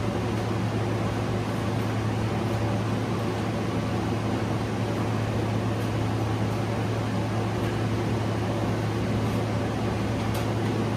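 A steady mechanical hum: a strong, unchanging low drone over an even hiss, with one faint tick near the end.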